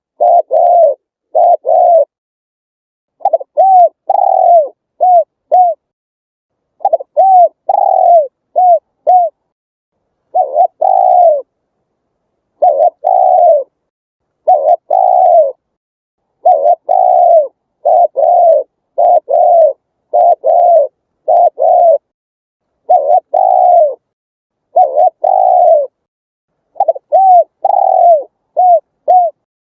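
Spotted dove cooing over and over: phrases of several short, arched coo notes, each phrase about a second or two long, with brief silent gaps between them.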